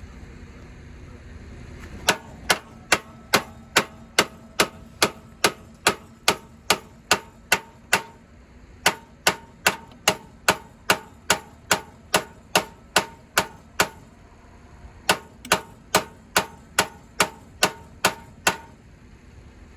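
Sharp metallic clicks at an even pace of about two and a half a second, in three runs with short pauses between them, each click ringing briefly.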